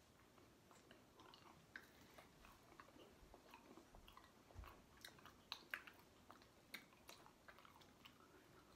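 Faint chewing of hard, sugar-coated fruit candies, with scattered small clicks and crunches.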